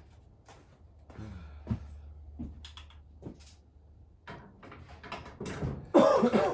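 Scattered clicks and knocks of hand tools and engine parts being handled during bearing-cap work, over a low steady hum, with a louder scrape-like burst near the end.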